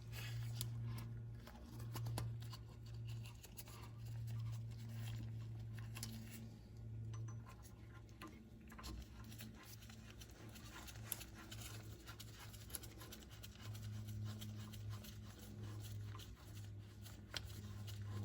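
Faint clicks and light metallic handling noises from brake caliper parts being worked by hand: slide pins being greased and pressed back into their rubber boots. A steady low hum runs underneath.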